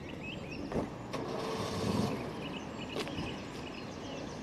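A car engine running, with small birds chirping now and then and a couple of sharp clicks.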